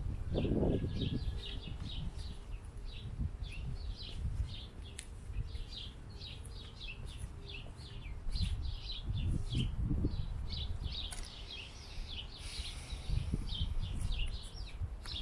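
Small birds chirping, a steady run of short high chirps, over a low uneven rumble.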